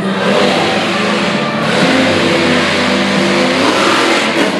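Monster truck engine running loudly, its pitch shifting up and down as it is revved.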